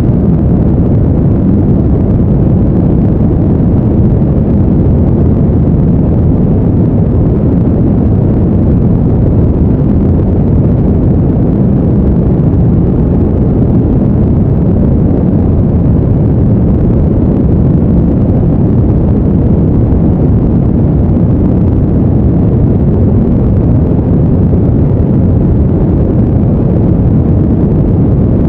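Steady, deep rumbling noise that never changes, like brown noise used as a sleep soundtrack.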